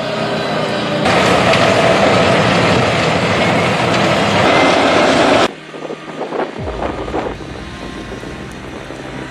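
Large industrial wood grinder running under load: a loud, dense engine drone with grinding noise. About five and a half seconds in it cuts off abruptly to a quieter low machine rumble with a few knocks.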